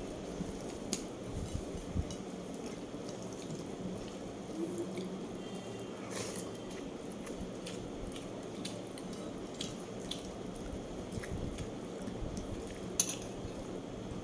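Close-miked eating sounds: scattered small wet clicks and taps from mouth and utensils over a steady low hum, with one sharper click near the end.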